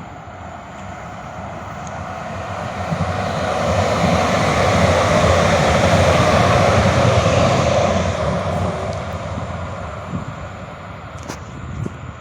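A vehicle passing by: a steady rushing and rumbling noise that grows louder, is loudest about five to seven seconds in, then fades away.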